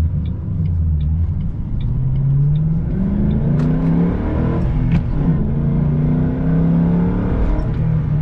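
2007 Ford Mustang GT's 4.6-litre V8 accelerating, heard from inside the cabin: the engine note climbs in pitch, drops back at an upshift about four seconds in, then pulls on fairly steadily.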